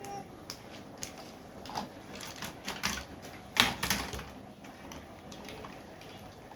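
Irregular clicks and knocks of small hard objects, bunched together from about two to four and a half seconds in, the loudest about three and a half seconds in.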